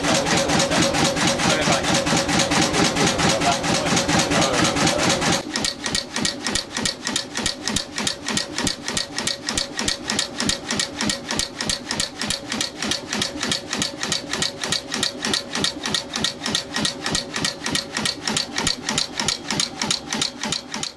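Old marine engine running with an even, rhythmic beat of about four to five strokes a second; about five seconds in the sound drops in level and the individual beats stand out more clearly.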